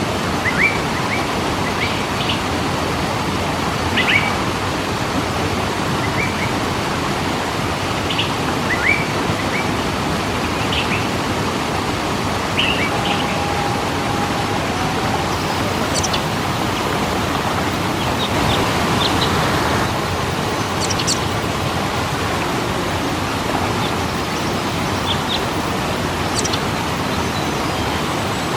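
Steady rush of falling water from a waterfall, with birds chirping now and then over it and one short held whistle about halfway through.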